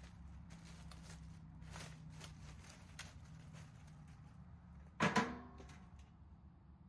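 Small clicks and handling knocks over a steady low hum, then a sharp metal clank about five seconds in that rings briefly, as metal parts are handled.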